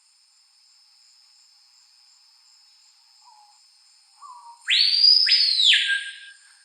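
Bird song over a steady high insect buzz: a couple of soft short notes, then about five seconds in a loud phrase of two sweeping high notes that slide down into a lower held note.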